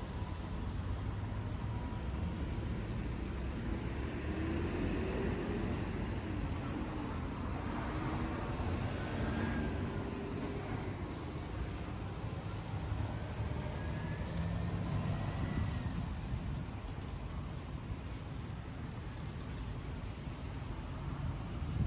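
Steady road traffic passing on a busy highway, with engine notes gliding up and down in pitch as vehicles go by.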